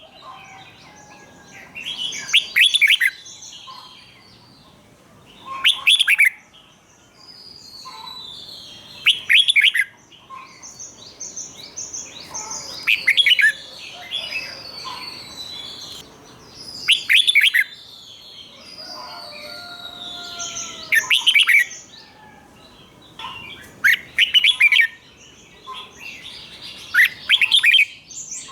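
Red-whiskered bulbul singing: a loud, quick song phrase about every three to four seconds, several of them doubled, with softer chirps and whistles between.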